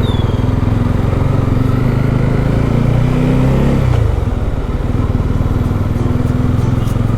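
Motorcycle engine running under way, its pitch rising and then dropping away sharply about four seconds in before settling to a steady run again.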